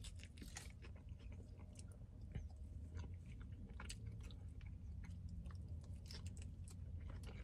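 A man chewing a mouthful of loaded waffle fries, faint, with scattered small wet clicks and soft crunches over a steady low hum.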